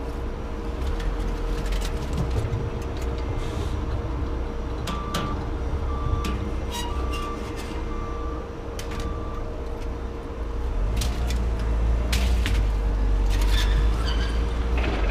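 A vehicle engine's low, steady rumble with scattered knocks and clanks. About a third of the way in, five short electronic beeps sound about a second apart.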